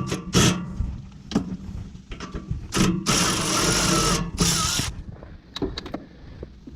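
Clicks and knocks of hand work on a generator's parts and fasteners, with a harsh rasping noise lasting about a second and a half past the middle.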